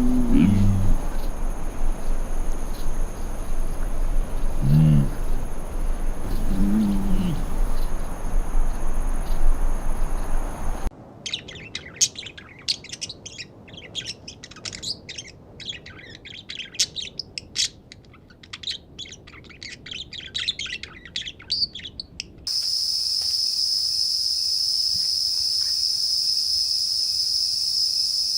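Wildlife sounds in three cuts. First a few low, pitched animal calls over a steady rumble, then a dense chorus of rapid bird chirps about a third of the way in. Past the two-thirds mark a steady, loud, high-pitched insect drone takes over.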